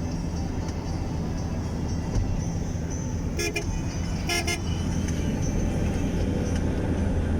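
Steady low rumble of a road vehicle on the move, with a vehicle horn giving two short toots about a second apart near the middle.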